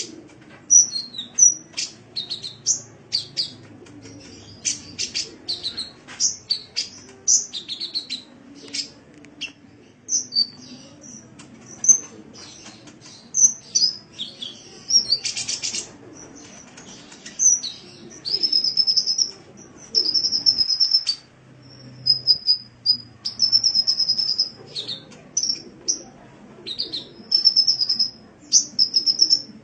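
Sunbird (the 'kolibri' of Indonesian bird keepers) singing a fast, high-pitched run of sharp chirps, quick sweeping notes and short buzzy trills. It sings in phrases broken by brief pauses, with longer held trills in the second half.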